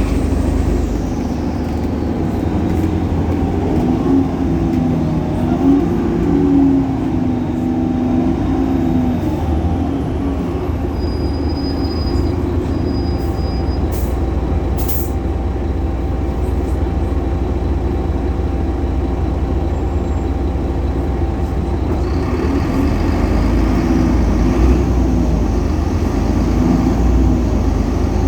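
Solaris Urbino 18 city bus with its DAF Paccar PR265 diesel engine and ZF Ecolife automatic transmission running, with the loud belt noise of the DAF engine. A faint high whine rises and falls near the end.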